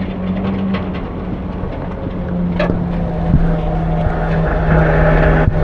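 Front-load garbage truck's engine running steadily and getting louder from about two seconds in, with a sharp clank near the middle and another near the end.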